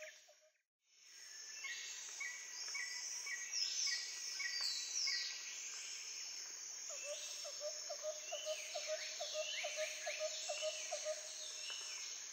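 Rainforest ambience fading in after a brief silence. Many birds call over a steady hiss of insects, with repeated falling whistles and, in the second half, a fast run of short lower notes.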